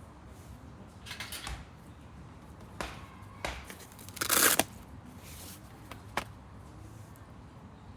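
Handling noises: a short rustle, a few sharp clicks, and one louder brief rustle or scrape about halfway through.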